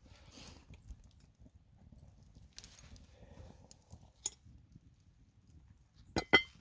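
Quiet handling noises with a few small knocks, then two sharp clanks in quick succession near the end, like cast-iron cookware being handled.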